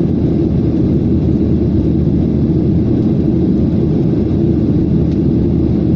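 Steady low rumble of a jet airliner in flight, engine and airflow noise heard inside the passenger cabin.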